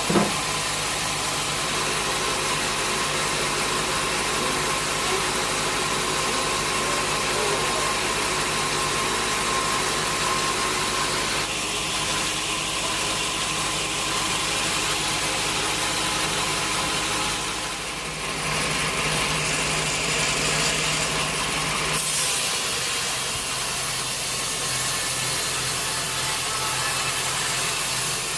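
Sawmill machinery running steadily, a motor hum with a continuous rushing noise, changing in character a few times, around 12, 18 and 22 seconds in.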